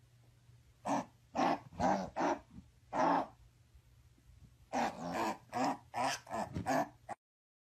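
A dog making short, growly vocal bursts in two quick runs, a handful each, before the sound cuts off abruptly near the end.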